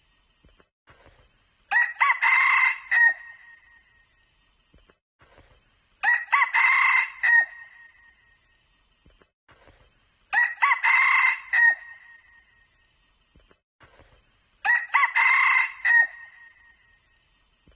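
Red junglefowl crowing: four short, ringing crows of about a second and a half each, evenly spaced about four seconds apart, with quiet between them.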